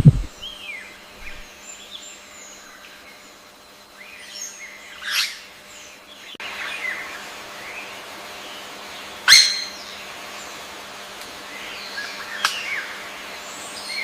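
Birds chirping: scattered short, sharp chirps, the loudest about five and nine seconds in, over a faint steady hum, after a thump at the very start.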